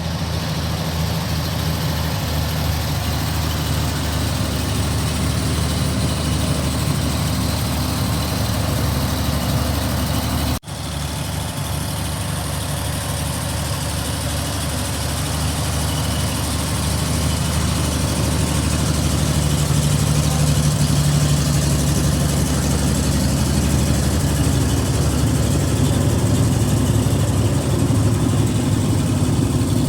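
Vintage Chevrolet truck's straight-six engine idling steadily. A brief cut about ten seconds in, after which the engine sounds a little louder.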